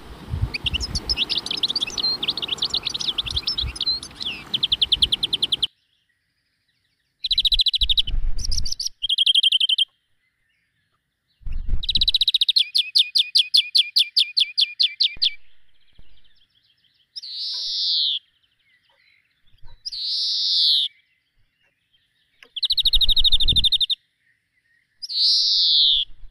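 Songbirds singing in a string of short separate clips with silent gaps between them: fast trills and rapid repeated high notes, and several single loud calls that fall in pitch. Some clips carry a low rumble underneath.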